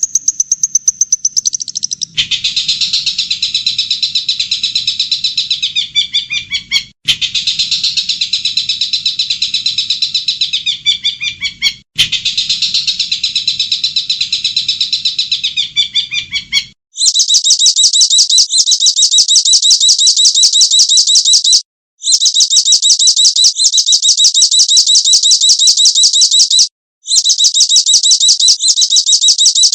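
Recorded small songbird song played as repeating loops. For the first half a warbling high song phrase repeats about every five seconds over a faint low hum. Then, about halfway through, it switches to a very fast, even, high-pitched trill repeated in loops with short breaks between them.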